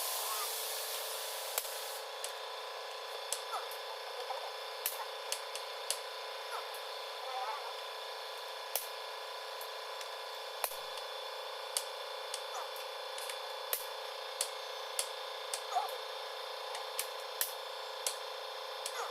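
Scattered light metallic clicks and taps of hand tools and parts during diesel engine reassembly, over a steady workshop hum. A high hiss, like an air blow gun, dies away about two seconds in.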